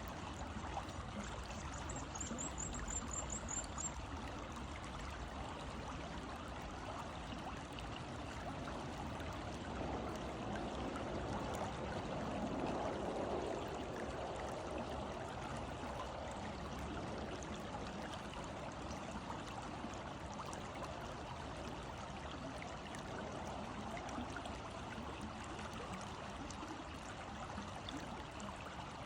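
Selwyn River's water flowing in a steady rush and trickle, swelling a little about ten to fourteen seconds in.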